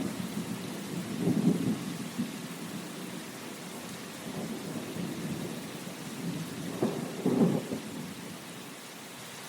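Steady rain hissing, with low rumbles of thunder swelling up about a second in and again, louder, as a close pair around seven seconds in.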